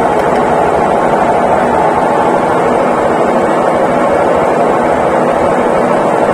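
Consul Facilite 11 kg washing machine running steadily, its motor and drum making an even whirring hum with no pauses or change in pitch, as in a spin cycle near the end of the wash.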